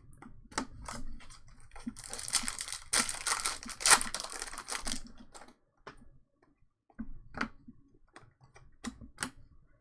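A trading-card pack wrapper crinkling and tearing open for about three seconds, with scattered light clicks of cards being handled before and after.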